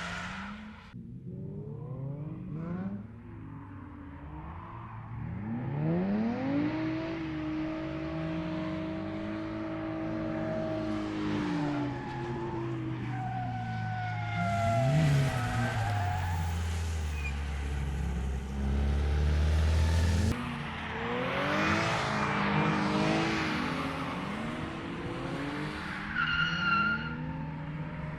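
Drift car engine revving hard, its note climbing and falling as the throttle is worked, with tyres squealing as the car slides. There are high tyre squeals about halfway through and again near the end, and a deep engine drone just before the midpoint.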